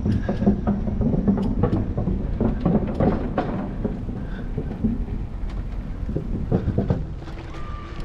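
Ride noise of a bicycle on the road: a steady low rumble from the tyres with frequent small rattles and knocks from the bike.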